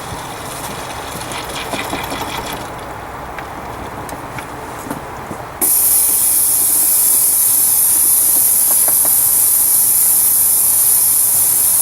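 Vacula vacuum oil extractor drawing engine oil up through the dipstick tube: a softer hiss with light clicks, then about five and a half seconds in a sudden jump to a loud, steady hiss of air rushing through the extractor.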